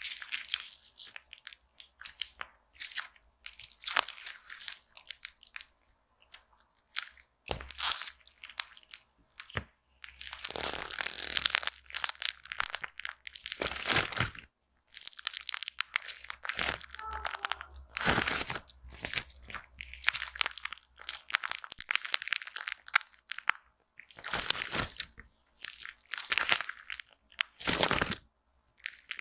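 Slime being squeezed and pressed close to the microphone, giving crackly, crunchy bursts with short pauses between them.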